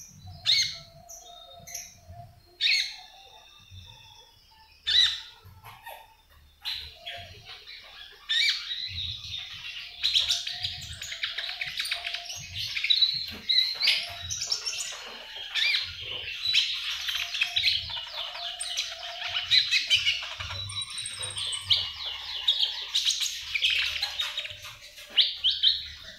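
Caged konin calling: single sharp chirps every couple of seconds, then from about eight seconds in a long stretch of rapid, continuous chattering twitter.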